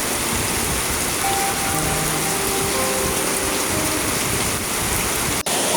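Heavy rain falling, a steady dense hiss, with a few faint music notes over it.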